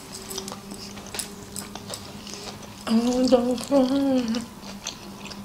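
Soft chewing of sushi rolls with small scattered clicks. About three seconds in, a woman's voice sings a short two-part phrase without clear words.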